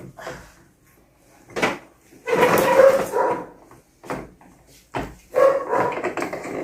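A dog barking in several loud bursts, with short pauses between them.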